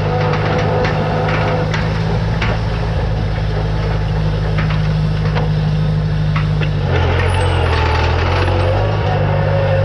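Tractor engine running steadily under load, its note dropping for a couple of seconds about seven seconds in before picking back up, with scattered clicks and knocks over it.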